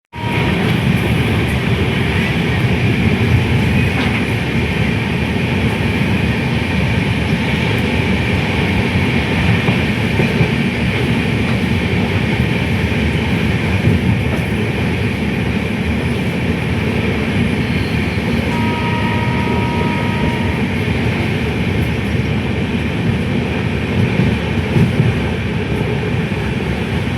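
Steady low rumbling of a moving train, with a short two-note tone about two-thirds of the way through.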